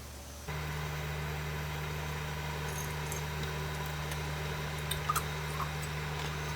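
A steady low mechanical hum that starts abruptly about half a second in, with a few faint clicks near the end.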